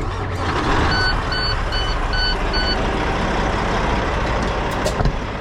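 Semi truck's diesel engine starting up and running. About a second in there are five short beeps, about three a second, typical of the cab's dash warning chime at start-up.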